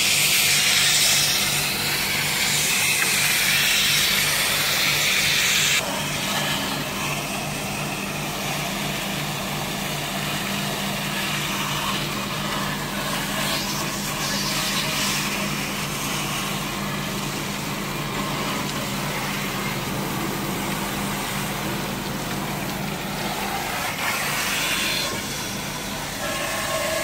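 A steady engine-like hum with a noisy rush over it. The higher hiss drops off suddenly about six seconds in, while the low hum carries on.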